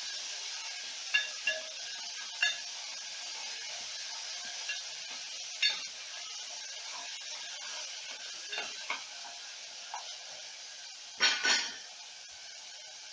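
Ginger-garlic paste and whole spices frying in hot oil in a metal pot: a steady sizzle, with a spatula scraping and knocking against the pot now and then, loudest in a brief clatter near the end.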